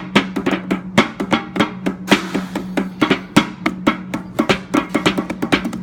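Percussion-led music: fast hand-drum strikes, several a second, over a steady low hum.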